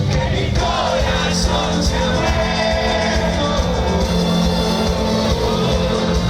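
Cumbia band playing loudly, with a singer's voice over a steady bass beat.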